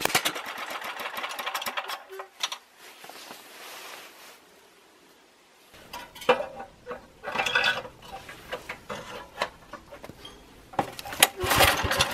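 Small generator engine turning over in rapid regular strokes that die away within the first two seconds, as it fails to keep running. Then a quiet spell, followed by irregular clattering and knocks that grow louder near the end.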